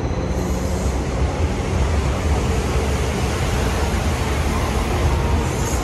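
Electric commuter train moving along the platform: a steady, loud rushing noise over a deep low hum, with no distinct clanks or horn.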